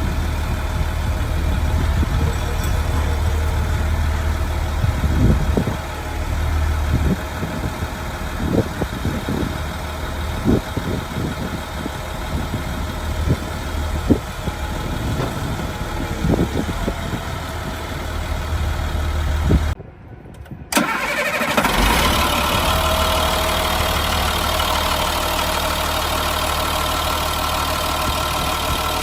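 Ford F750 truck's engine idling steadily, with scattered short knocks over the first part. About twenty seconds in the sound drops out for about a second, then steady engine running resumes with more high tones in it.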